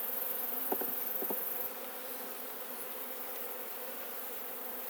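Steady hum of many honeybees flying around an opened hive, with a couple of faint clicks in the first second and a half.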